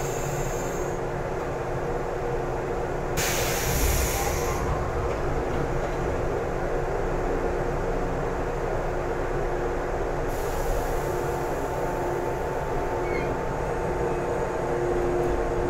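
Sound inside a JR 113-series electric train carriage: a steady rumble with a constant hum of several tones. A burst of hiss comes about three seconds in and lasts a second or so, and another starts about ten seconds in and keeps going.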